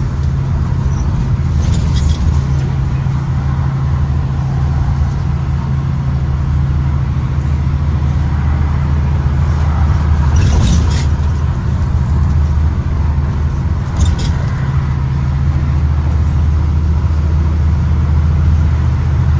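2023 Blue Bird Vision school bus running, a steady low engine and road drone, with a few brief rattles about two, ten and fourteen seconds in.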